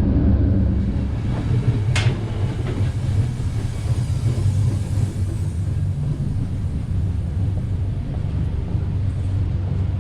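Loco-hauled Trenitalia Intercity train running along the line: a steady low rumble of wheels on track, with one brief sharp squeak about two seconds in.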